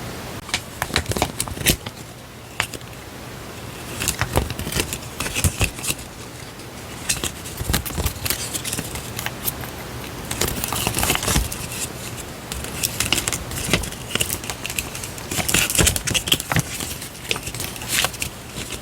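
Paper stationery being handled close to the microphone: crinkling and rustling with many small clicks and taps.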